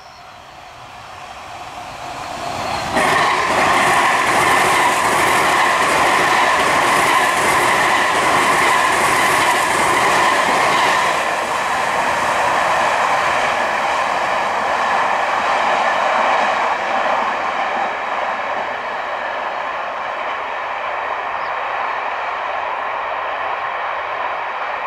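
An electric train passing close by. It swells over the first few seconds, jumps louder about three seconds in with steady high tones over the rush of the wheels, then slowly fades away.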